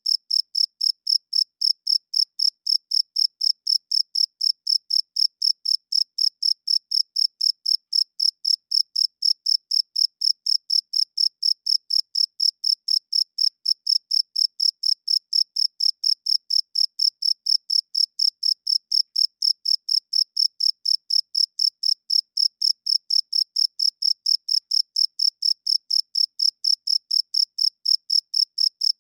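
A cricket chirping in a steady, even rhythm of short, high-pitched chirps.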